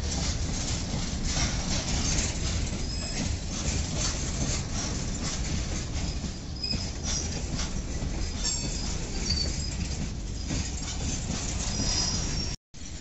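Indian Railways BCNA covered goods wagons rolling past close by: a steady rumble of steel wheels on rail, with repeated knocks over rail joints and several brief high-pitched wheel squeals. The sound drops out suddenly for a moment near the end.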